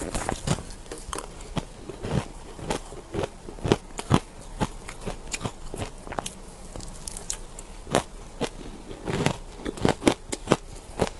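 A person biting and chewing powdery shaved ice close to the microphone: irregular sharp crunches and crackles, coming in short runs of several at a time.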